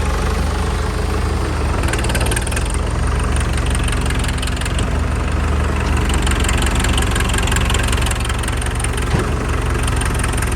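Farm tractor's diesel engine running steadily, with one brief knock near the end.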